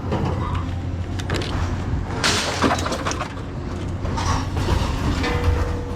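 Steady low hum of a running vehicle, with short bursts of clattering and rattling about two seconds and four seconds in.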